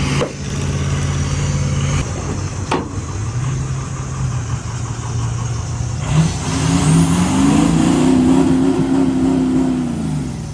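Pickup truck engine running steadily, then revving up about six seconds in, holding high for a few seconds and dropping back near the end.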